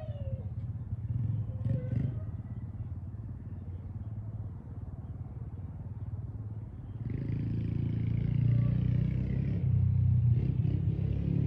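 Motorcycle engine running with a low rumble, getting louder and picking up about seven seconds in.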